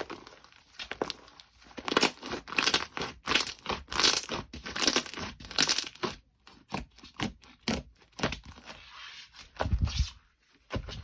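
Slime being squeezed and pressed by hand, making a quick run of sharp crackles and pops that is busiest in the first half and thins out toward the end.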